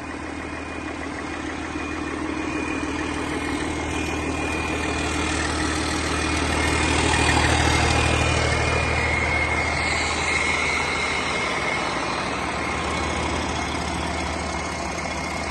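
1999 Detroit Series 60 12.7-litre inline-six turbo diesel engine running on a test run. It is slowly brought up in speed, loudest about halfway through, then eased back, with a steady high whine above the engine's hum.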